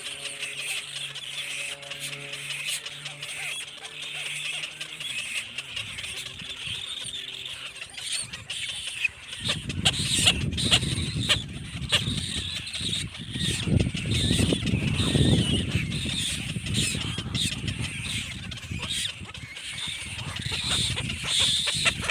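Nestling birds squealing and cheeping continuously in a steady, dense chorus. A loud low rumble joins about nine seconds in.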